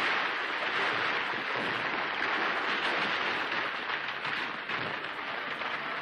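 Steady rushing noise from a 41-ton TNT blast on an old newsreel soundtrack, slowly easing off.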